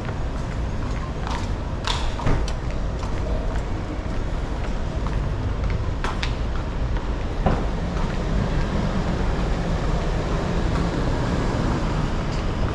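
Busy city street traffic: a steady rumble of passing vehicles and engines, with a few sharp knocks, the loudest about two seconds in and again about seven and a half seconds in.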